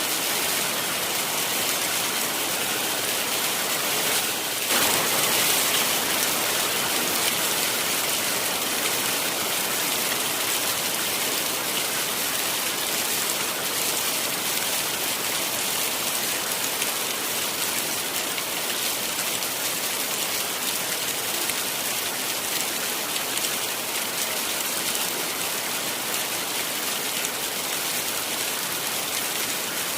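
Heavy rain falling steadily, a dense even hiss, swelling slightly about five seconds in.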